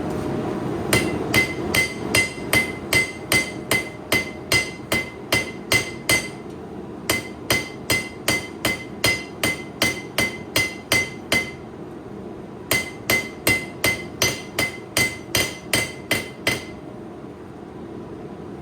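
Hand hammer striking a steel knife blade on an anvil in three runs of quick, even blows, about three or four a second, each with a short metallic ring, broken by two brief pauses. A steady low hum runs underneath.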